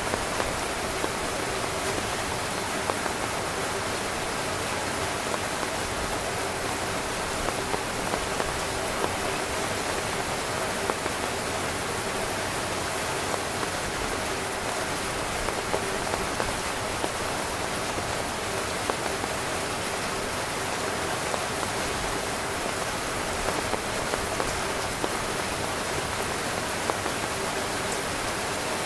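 Heavy rain drumming steadily on a tent's fabric, a dense hiss with many individual drops ticking sharply on top.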